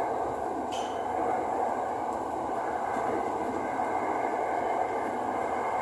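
Interior running noise of the SRT Light Red Line electric commuter train: a steady rush of wheels on rail and air over the car with a low rumble beneath. A single brief high click sounds about a second in.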